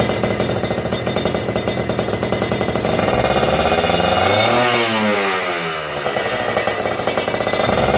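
Kawasaki Ninja 150's two-stroke single-cylinder engine through an aftermarket stainless exhaust, idling with a crackly, uneven note, then revved once, its pitch climbing for about a second and a half and dropping back to idle.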